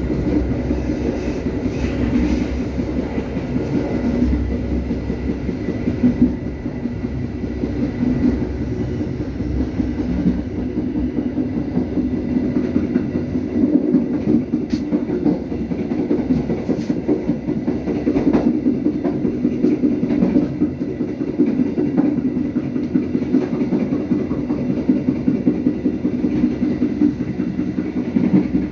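Indonesian passenger train carriage running along the track, heard from inside the carriage: a steady rumble of wheels on rail with repeated short clacks.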